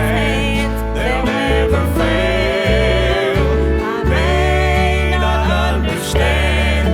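A woman's solo voice singing a gospel song with vibrato on held notes, over a country-style instrumental backing with a steady bass line.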